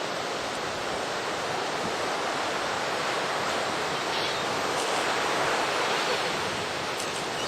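Ocean surf breaking and washing up a sandy beach: a steady wash of waves that swells a little in the middle.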